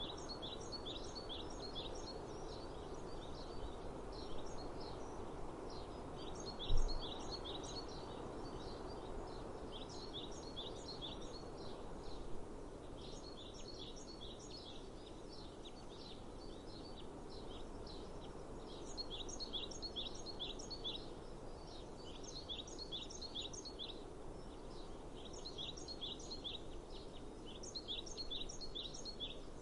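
A bird sings the same short phrase of rapid high notes over and over, every few seconds, over a steady outdoor hiss of breeze. There is a single low thump about seven seconds in.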